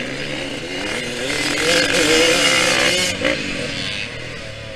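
Yamaha YZ125X two-stroke dirt bike engine revving up under throttle, its pitch climbing to a peak about two seconds in. Just after three seconds it drops off sharply as the throttle closes, with wind noise on the helmet camera throughout.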